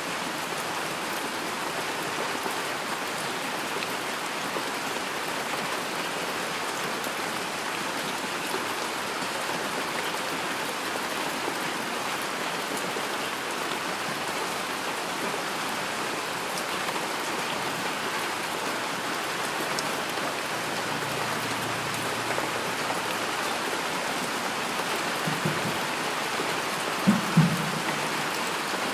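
Steady heavy rain: an even hiss of drops falling on surfaces, with a few brief low thumps near the end, two of them louder.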